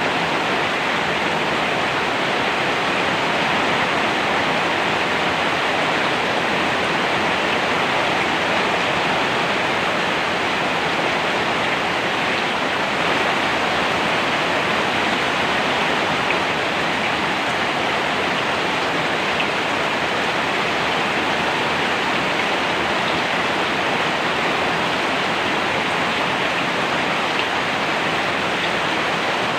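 Steady heavy rain falling, an even unbroken hiss with no individual drops or thunder standing out.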